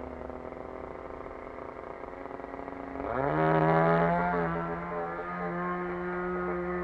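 Small single-cylinder two-stroke petrol model-aircraft engine (RCGF 20cc) idling. About three seconds in it is throttled up quickly, then settles to a steady higher speed.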